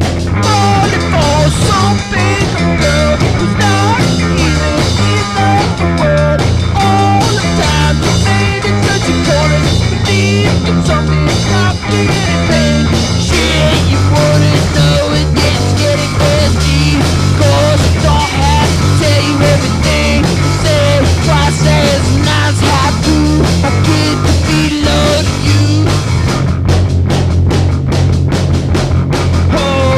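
Rock music with a drum kit, bass and guitar, playing continuously and loud, with a wandering melodic line over a steady low end.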